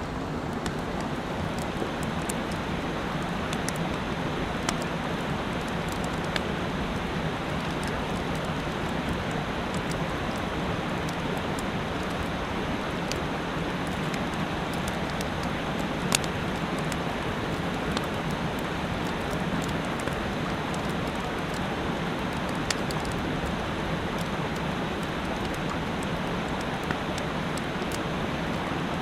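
Mountain stream rushing: a steady, even sound of flowing water, with a few sharp ticks scattered through it.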